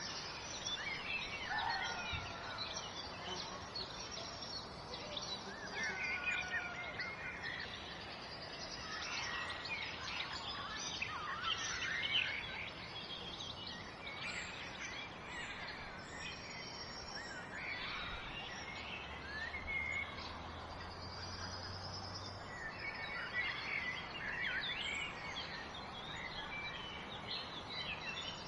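Several birds chirping and singing over a steady background hiss, with short warbling calls overlapping throughout.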